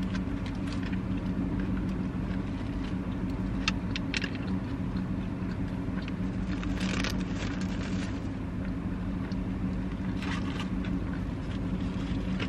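Close-up chewing of a bite of cheeseburger, with scattered short wet mouth clicks and paper wrapper crinkles, the strongest about seven seconds in. Under it runs a steady low hum from the car.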